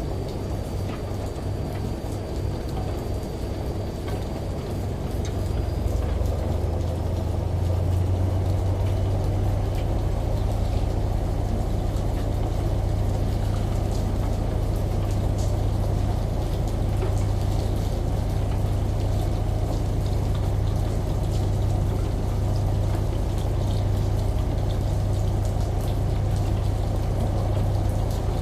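Washing machine running, with water rushing and a steady low motor hum that gets louder about six seconds in and then holds.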